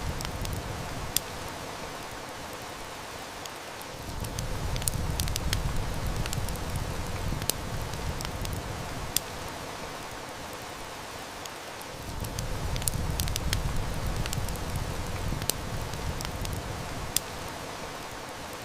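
Wood fire crackling, with sharp snaps every second or two, over a steady hiss of heavy rain. A low rumble swells and fades in slow waves every eight seconds or so.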